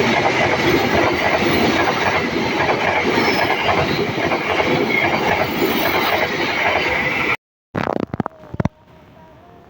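Train passing close by: a loud, dense rush and clatter of wheels on the rails that cuts off suddenly about seven seconds in. It is followed by a few short knocks and a much quieter background.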